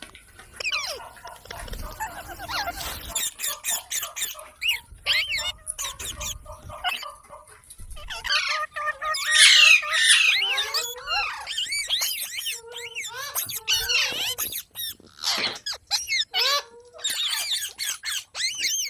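Parrots chattering and squawking in quick, high-pitched chirps and calls, with a loudest flurry about nine to ten seconds in.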